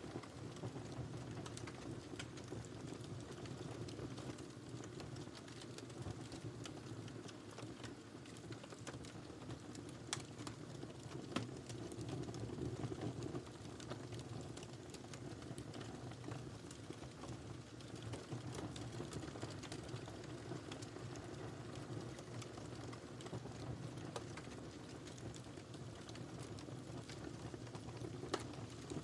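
Burning firewood in a fireplace crackling steadily, with a low rushing of flames and many small snaps, and a few sharper pops, about eleven seconds in and near the end.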